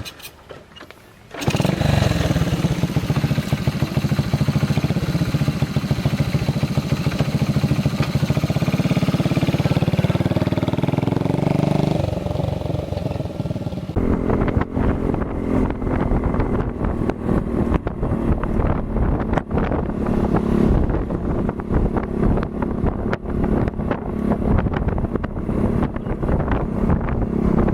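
Motorcycle engine starts about a second and a half in and runs loud and steady, rising in pitch for a few seconds. About halfway through the sound changes abruptly to a lower, rougher run.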